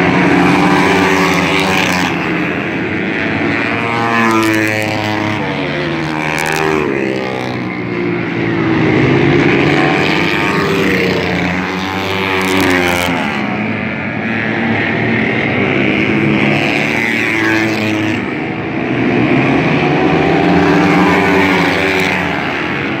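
Several dirt bike engines racing together, their pitch rising and falling as the riders throttle up on the straights and back off into the turns. The sound swells every few seconds as the pack comes past.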